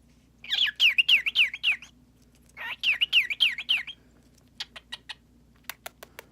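A pet cockatiel chattering in two quick phrases of repeated, falling whistled syllables, like its mimicked "Gabby, Gabby, Gabby", then a run of sharp clicks in the last two seconds.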